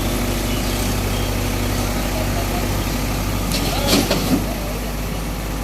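A heavy machine's diesel engine running steadily. About four seconds in comes a brief, louder noise, perhaps a shout or a metallic squeal, and after it the engine note drops a little.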